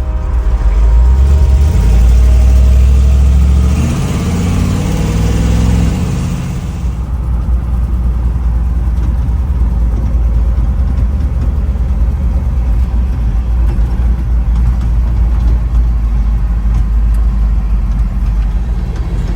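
A 454 big-block V8 in a 1961 Chevrolet Apache truck under throttle, loudest in the first few seconds. Its pitch shifts about four to six seconds in, then it runs steadily.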